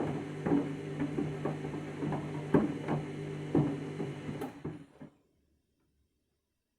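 Candy washing machine's drum motor humming as the drum turns on the main wash, with a knock about once a second as the mat tumbles inside. The motor cuts off suddenly about five seconds in, the drum pausing between turns.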